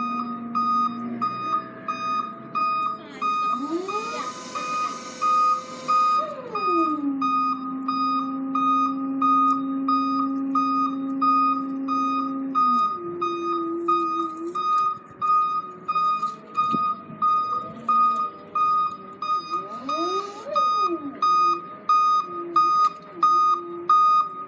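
Forklift warning beeper sounding in a steady, even repeat over the whine of the forklift's motor. The whine rises, holds one pitch for several seconds, drops, and then rises and falls again near the end.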